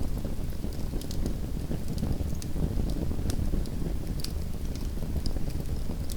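Small wood fire burning in a fireplace: a steady low roar of the flames with scattered sharp crackles and pops at irregular moments.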